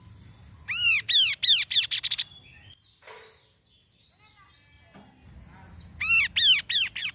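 Kaso-kaso bird singing two loud phrases about five seconds apart, each a run of notes that rise then fall in pitch, speeding up into a quick trill. Faint calls sound between the phrases.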